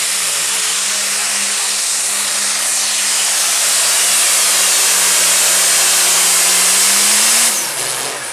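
Limited pro stock pulling tractor's turbocharged diesel engine running at full throttle under the load of the sled: a loud, steady scream with a hiss on top. About seven and a half seconds in the engine note drops and the sound falls away as the throttle comes off at the end of the pull.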